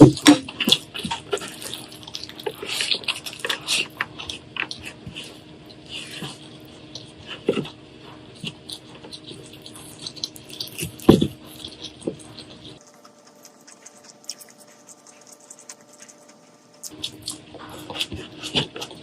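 Wet eating sounds: irregular chewing clicks and smacks, with a brief lull about two-thirds of the way through before they resume.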